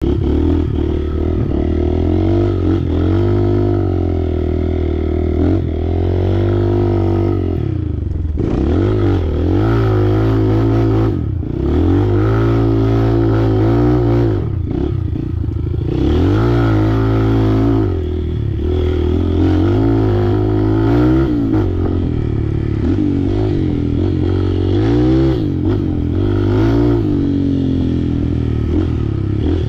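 Off-road motorcycle engine running under load, its speed rising and falling again and again as the throttle is worked, with rattling from the bike.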